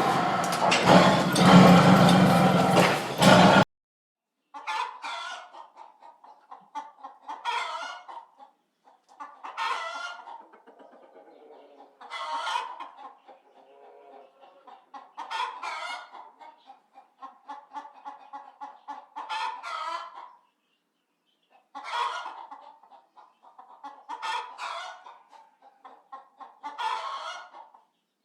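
Chicken clucking, rising into a louder cackle about every two and a half seconds, with softer clucks between. It begins after a loud noisy sound that cuts off suddenly near the start.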